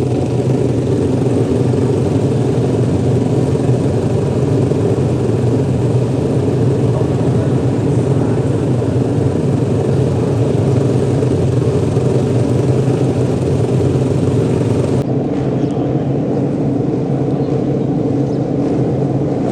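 Racing motorcycle engines running together in a loud, steady drone with little change in pitch.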